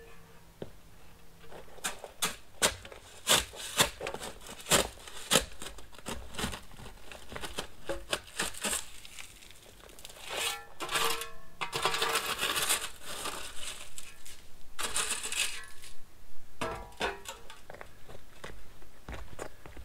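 Irregular clicks, clinks and rustling, with longer scraping or rustling stretches about halfway through and again later.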